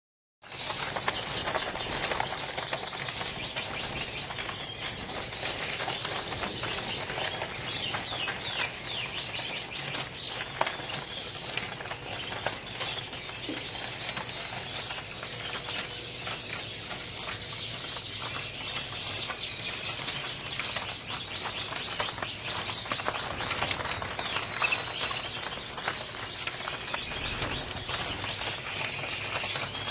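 A group of Gloster canaries chirping and trilling continuously, many calls overlapping, with frequent short flutters and clicks among them.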